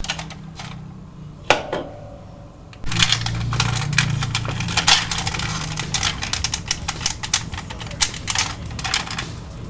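Hard plastic toy parts clicking and clattering as die-cast and plastic mecha toys are handled and moved, with many quick clicks. A low steady hum joins in about three seconds in.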